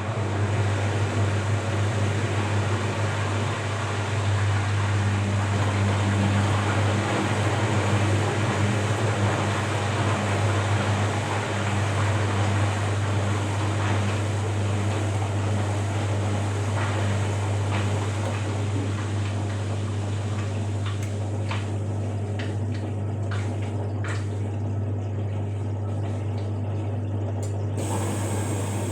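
Washing machine running with water rushing through it over a steady low hum, with scattered clicks and trickles in the last third.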